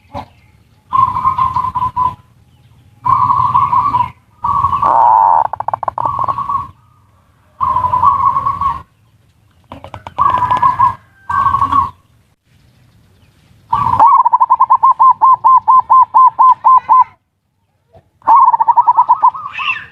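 Zebra doves (perkutut) cooing loudly in a string of separate phrases. Around two-thirds of the way in comes a fast run of rapid, evenly spaced coo notes, about five a second, lasting some three seconds.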